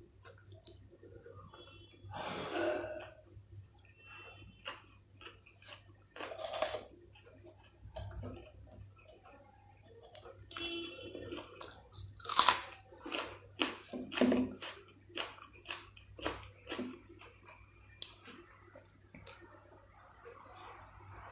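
Close-miked person chewing and biting food, with irregular wet mouth clicks and sharper crunchy bites, the loudest a little past halfway.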